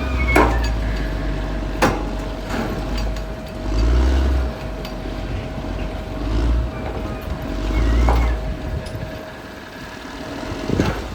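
Caterpillar D6R XL bulldozer's diesel engine working under varying load, its rumble swelling and easing every couple of seconds over a steady whine. A few sharp metallic knocks, the loudest about two seconds in.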